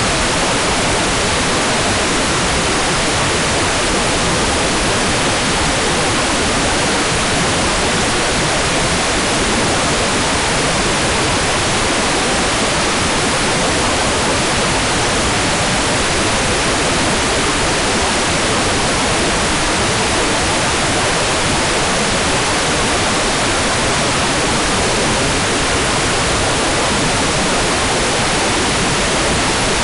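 Hair dryer running steadily, a loud, constant rushing noise with no change in pitch or strength.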